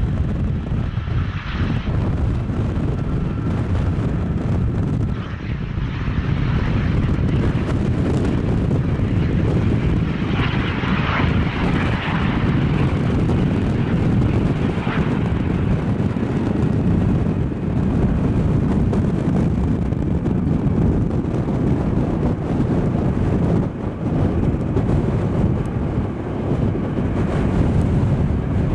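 Boeing C-17 Globemaster's four turbofan engines running, a steady, mostly low-pitched jet engine noise with some brief swells partway through.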